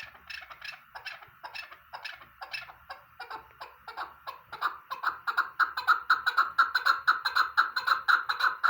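Chukar partridge calling: a run of short clucking notes, a few a second, that quickens and grows louder about halfway through into a fast, rapid chatter.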